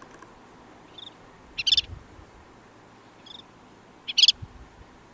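Collared pratincole calling twice, about two and a half seconds apart: each time a faint short note, then about half a second later a louder, sharp chattering call.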